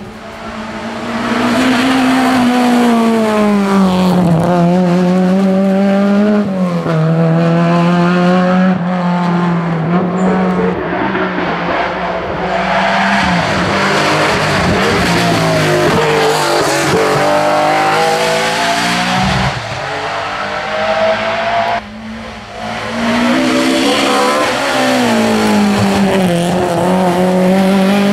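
Historic rally car engines driven hard, revving up and down through gear changes, with a brief drop in level about 22 seconds in before the engine note climbs again.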